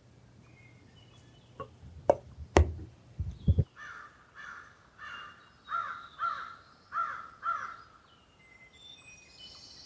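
A few sharp knocks and low thuds, then an animal calling about eight times in a row, roughly two calls a second, followed by faint chirps.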